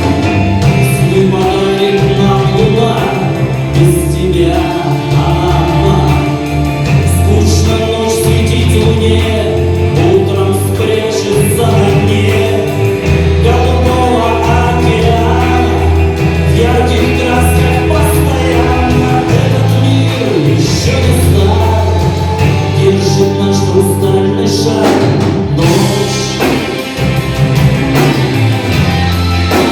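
Rock band playing live: electric guitar and bass over drums with cymbal hits, in sustained, full-sounding chords.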